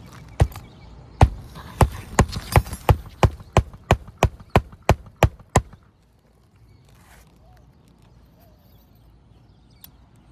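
A hammer driving roofing nails into asphalt shingles: about fourteen sharp blows, quickening to about three a second, that stop a little past halfway.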